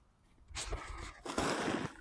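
Two scuffing footsteps on a woodland trail, about a second apart.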